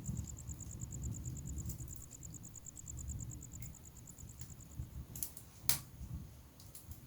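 Wood fire burning in a fireplace: a low steady rumble of flame with scattered sharp crackles and pops, the loudest a bit over five and a half seconds in. A high, rapidly pulsing trill runs alongside and stops about two-thirds of the way through.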